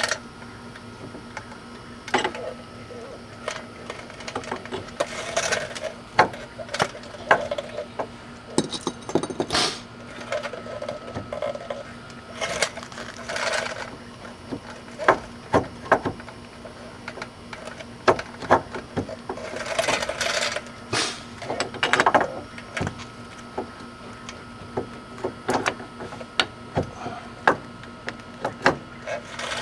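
Hand tools working on metal car parts: scattered sharp clinks and knocks, with a few short runs of rapid clicking, over a faint steady hum.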